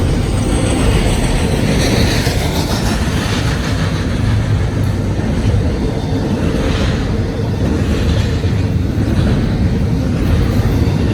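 Freight train cars rolling past at close range: a loud, steady rumble and clatter of steel wheels on the rails.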